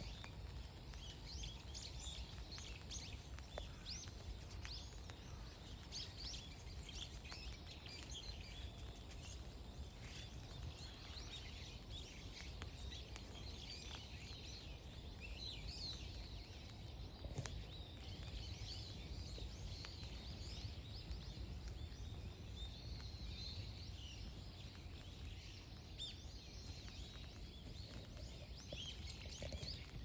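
Several wild songbirds chirping, many short, quick high calls overlapping throughout, over a steady low rumble.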